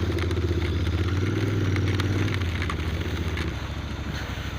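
Royal Enfield Continental GT 650's parallel-twin engine running at low revs as the bike moves off, its note changing about two and a half seconds in and dropping away a second later.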